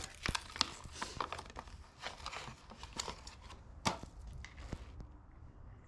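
Packaging being crinkled and torn open by hand to get a new eraser wheel out: irregular crackling and clicks that die away near the end.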